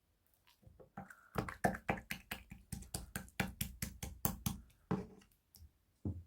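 Gold marbled slime being pressed and worked by hand, giving a quick run of sharp clicks and pops as trapped air bursts, about four a second, then two last pops near the end.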